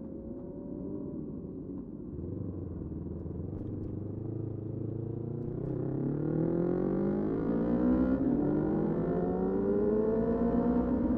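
Motorcycle engine running at low revs, then accelerating from about six seconds in, its pitch rising and getting louder.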